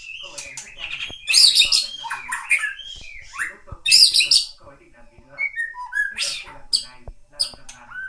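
A bird calling: several loud, harsh squawks, the loudest about a second and a half in and about four seconds in, with shorter, softer chirps and whistled glides between them.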